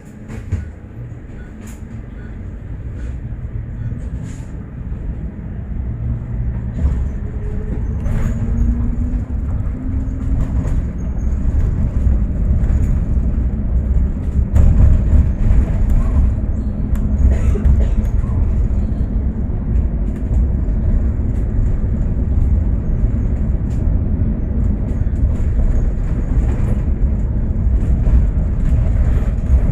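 Bus pulling away and gathering speed. The low engine and road rumble grows louder over the first dozen seconds or so, with a rising whine, then runs on steadily, with scattered rattles and clicks.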